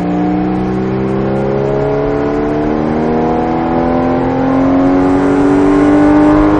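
Porsche Cayman GTS engine accelerating hard in one gear, its revs climbing steadily with no gear change, heard from inside the cabin.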